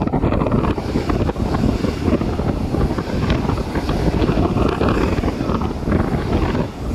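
Strong wind buffeting the microphone: a loud, dense rumble with irregular crackling.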